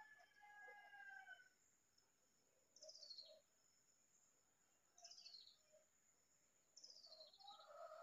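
Faint songbird calls: a drawn-out call in the first second and a half, then three quick falling chirps about two seconds apart, with more calling near the end. A thin steady high tone sits under them.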